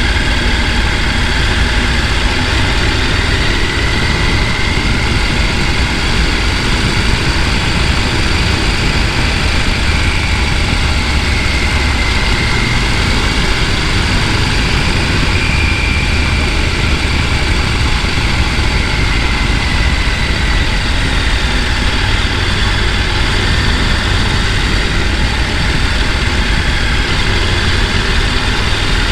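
Mountain stream rushing over rapids: a loud, steady roar of water with no change.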